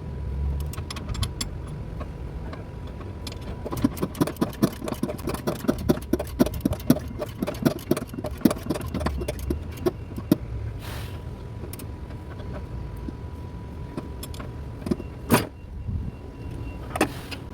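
Ratchet wrench clicking in quick repeated strokes as it runs a nut down onto the transmission mount bolt, followed by a few separate metal knocks near the end.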